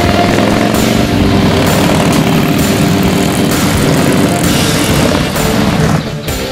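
Harley-Davidson V-twin running through a Bossley Reventon stainless megaphone exhaust, a loud, deep, steady exhaust note mixed with rock music. The exhaust sound drops away about six seconds in, leaving the music.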